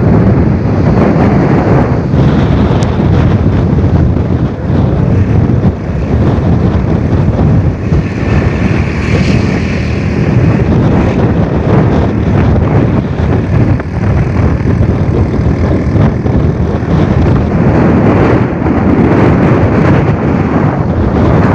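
Storm-force wind buffeting the microphone: a loud, continuous, rough rumble that surges and eases slightly without stopping.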